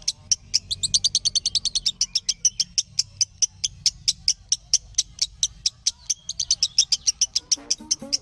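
Lovebird chirping: a fast, unbroken run of short, sharp, high chirps, several a second, over a low steady hum.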